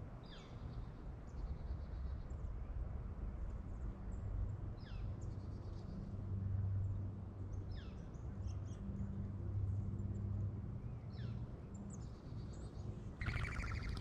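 Wild birds calling close to the microphone: a sharp call that sweeps steeply downward comes four times, spaced a few seconds apart, with fainter high chirps and short trills between. Near the end comes a louder, harsher call.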